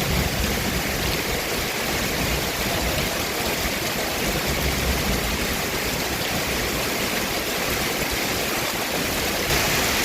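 Heavy rain falling steadily as a dense, even hiss, growing a little louder about nine seconds in.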